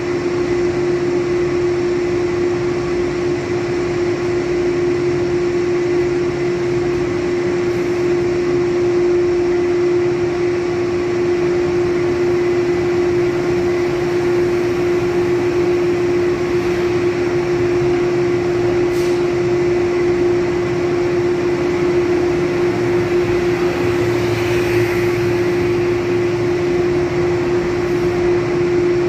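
Electric commuter train pulling into an underground station, its cars rolling past with an even rumble and a steady humming tone. There is a single short click about two-thirds of the way through.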